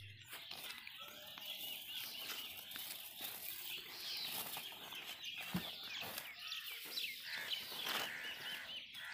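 Birds chirping, many short high calls overlapping throughout, with a single dull thump a little past halfway.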